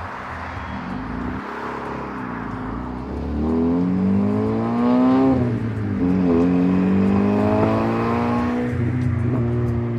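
Car engine accelerating: its pitch climbs, drops sharply at a gear change about five seconds in, climbs again through the next gear and levels off near the end.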